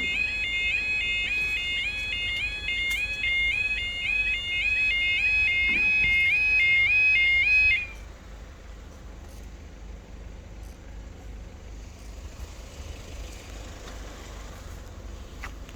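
Level crossing warning alarm sounding a repeating two-tone yodel, about two cycles a second, that cuts off suddenly about eight seconds in. After that only a low steady rumble with wind on the microphone remains.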